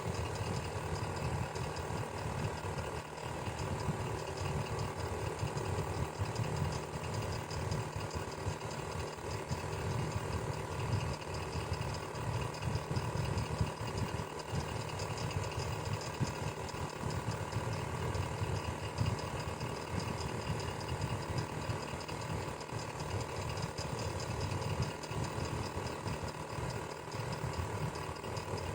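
Electric fan running steadily: a constant rush of air over a low motor hum, with several faint steady tones.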